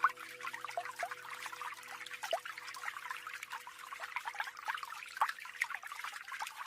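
Tiny natural waterfall on a small mountain stream, trickling and splashing with a dense patter of small plinking drops. Faint background music notes sound under the water and fade out in the first few seconds.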